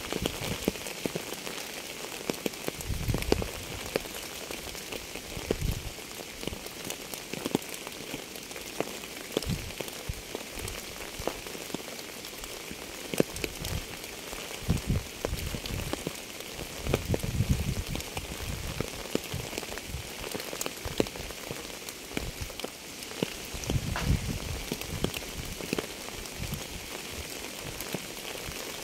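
Steady rain falling, with many separate raindrops clicking on a surface over an even hiss. A few brief low thumps stand out now and then.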